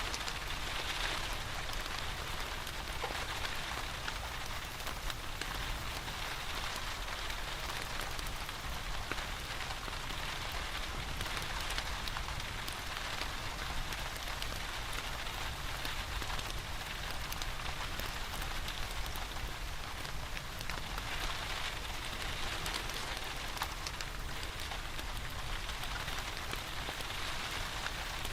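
Steady rain falling, with many small ticks and crackles scattered through it. It is a mixed ambience of rain and a wood fire burning in a fireplace.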